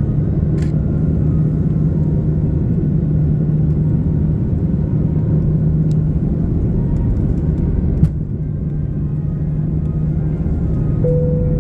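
Steady cabin rumble of an Airbus A330-300 with GE CF6-80 engines, airflow and engine noise with a constant low hum. There is a single click about eight seconds in and a brief tone near the end.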